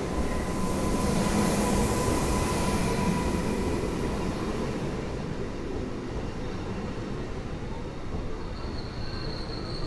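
Newag Impuls electric multiple unit moving along the platform: a rumble of wheels on rail with a rushing hiss, loudest in the first few seconds and then easing off. A thin steady whine runs through the first few seconds, and a fainter high whine comes in near the end.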